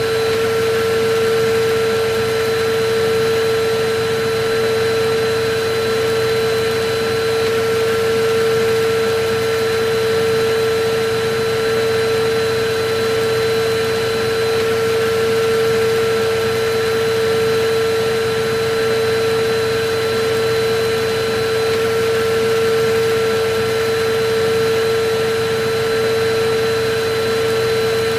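Electric vacuum cleaner running steadily: a constant rush of air with a steady motor hum and a faint high whine, unchanging throughout.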